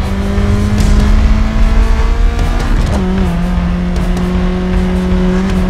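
Car engine running under load with a heavy low rumble. Its pitch climbs slowly, steps down about three seconds in, then holds steady.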